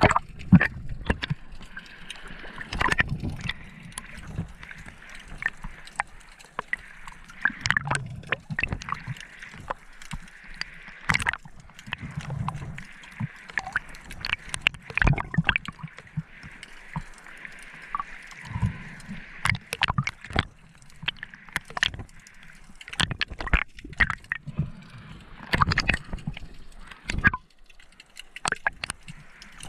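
Water sloshing and gurgling, with many irregular sharp clicks and low knocks scattered throughout.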